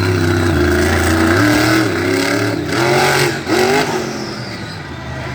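Monster truck engine revving hard in repeated bursts, its pitch rising and falling several times.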